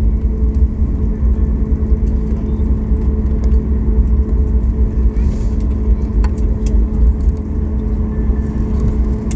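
Car running with a steady low rumble and a constant hum, with scattered light clicks.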